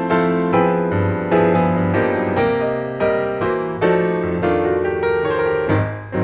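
Background piano music: gentle keyboard chords and melody notes struck at an even pace, each note ringing and fading.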